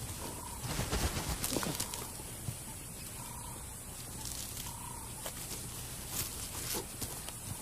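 African wild dogs digging at a den burrow: irregular bursts of scratching and scrabbling in soil, busiest about a second in and again near the end. Faint short calls recur in the background.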